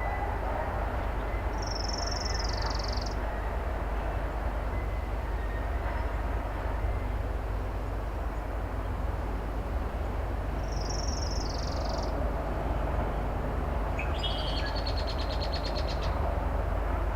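Songbirds singing over a steady low rumble and hiss: two similar short, high songs, one a couple of seconds in and one past the middle, then a buzzy trilled song near the end.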